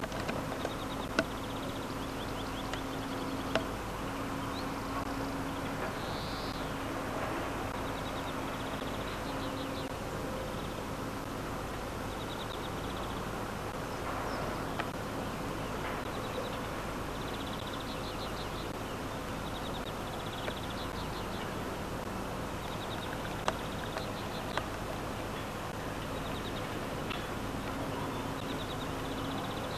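Rural outdoor ambience: a steady background hiss and faint hum, with repeated short, rapid chirping trills from small birds or insects coming and going, and a few sharp clicks.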